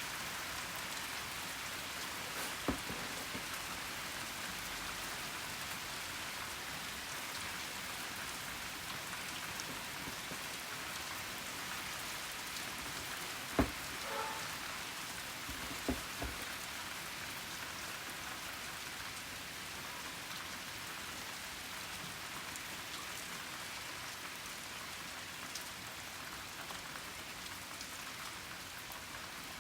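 Steady rain falling during a thunderstorm, an even hiss, with a few sharp taps: one about three seconds in and two more near the middle. No thunder is heard.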